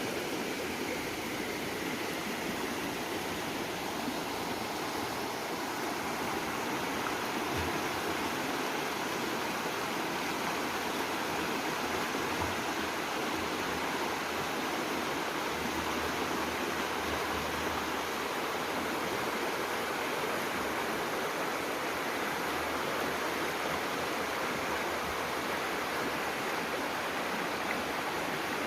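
Mountain river running: a steady, unbroken rush of flowing water.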